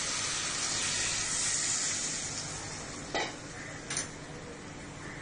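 Chicken pieces and fried onion sizzling in a hot pan as coconut milk is added, the sizzle dying down after a couple of seconds. Two short utensil knocks on the pan follow.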